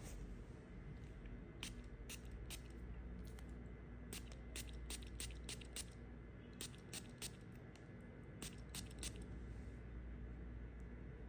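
Knife cutting through dry soap, giving a run of short, crisp, irregular crackles and clicks that come in small clusters, over a faint steady low hum.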